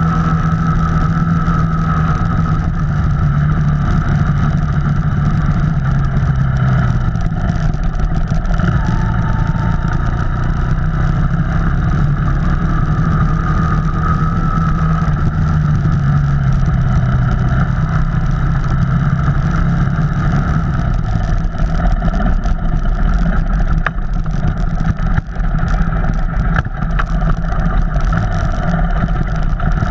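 Off-road vehicle engine running steadily on the trail, its pitch rising and falling with the throttle over a constant low rumble, with a brief drop in loudness near the end.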